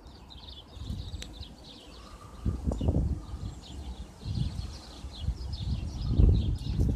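Gusty wind buffeting the phone microphone in rumbling surges, strongest about two and a half seconds in and again near the end, with small birds chirping throughout.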